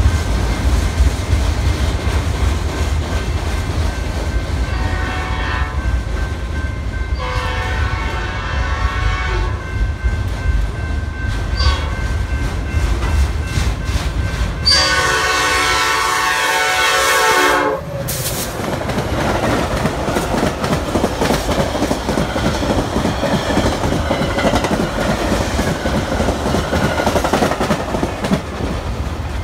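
Freight train of autorack cars rolling past with a steady low rumble and wheel clatter. An approaching Metra commuter train sounds its horn three times, about five, seven and fifteen seconds in, and the last blast is the loudest and longest. After that the Metra train passes close by with a rushing rail noise.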